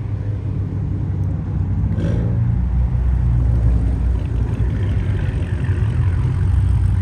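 Car engines running with a steady low rumble as cars pull in, one engine revving briefly.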